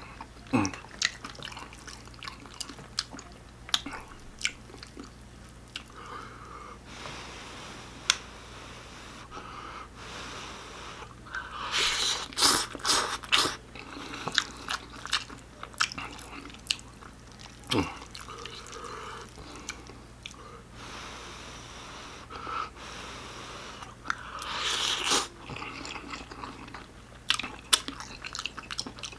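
Close-up chewing and wet mouth clicks of a person eating ramen noodles and bacon-wrapped sausage, with two louder, noisier stretches, one near the middle and one near the end.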